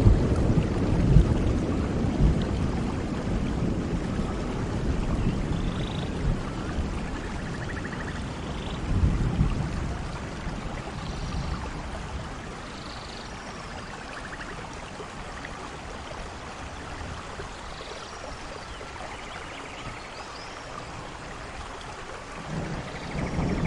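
Thunderstorm: steady rainfall with rolling thunder. A rumble dies away over the first few seconds, another swells briefly about nine seconds in, and a new rumble builds near the end. Faint high chirps are scattered through the rain.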